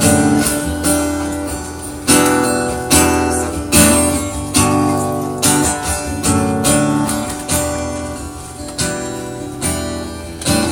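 Acoustic guitar playing a song's introduction: strummed chords struck roughly once a second, each ringing out and fading before the next.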